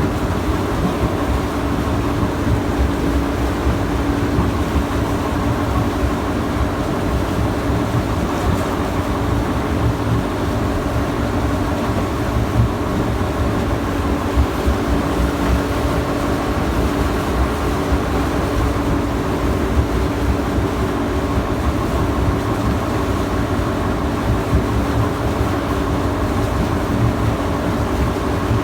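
Steady, loud drone of a tanker ship's running machinery, a deep rumble with a constant hum that does not change.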